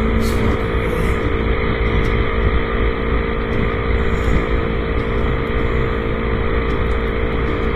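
Yamaha YZF-R25 sport motorcycle's 250 cc parallel-twin engine running at a steady cruising speed, with wind and road noise over it.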